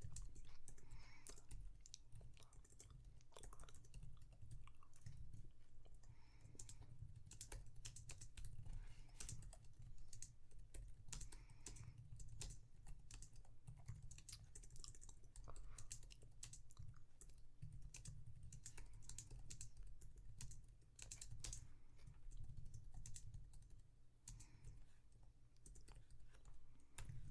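Typing on a computer keyboard: rapid, irregular key clicks with short pauses, over a low steady hum.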